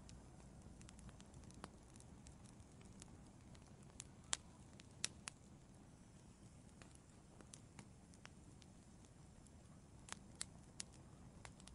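Wood fire crackling in an outdoor fireplace: irregular sharp pops and snaps, the loudest about four and five seconds in, with a small cluster near the end, over a faint low steady hiss.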